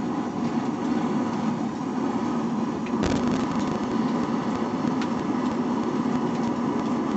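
A forge running with a steady roar, with a single sharp knock about three seconds in.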